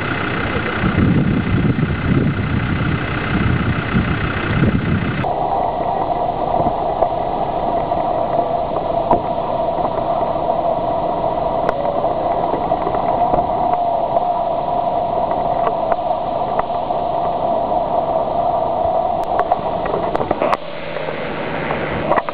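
Off-road 4x4 engines running and idling, the sound changing abruptly twice, with a long steady hum through the middle.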